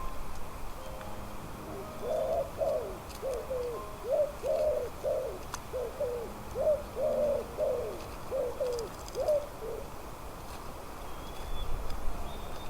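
A bird giving a run of short, low calls, about two a second, for several seconds.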